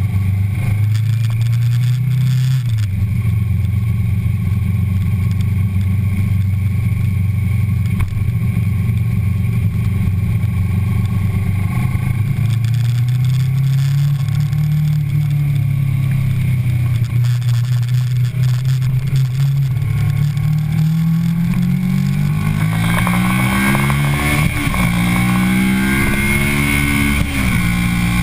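2009 Kawasaki Ninja 650R's parallel-twin engine heard from a tank-mounted camera, running at a fairly steady pitch at first. In the last seven seconds it accelerates hard, pitch climbing with two sudden drops as the rider shifts up, while wind noise rises with the speed.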